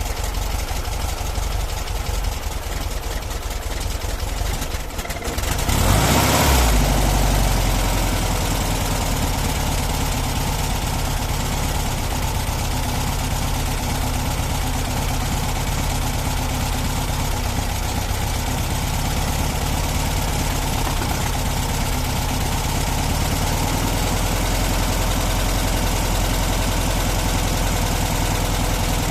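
Volkswagen T2 bus's air-cooled flat-four engine idling, with a brief loud surge about six seconds in, then running on steadily.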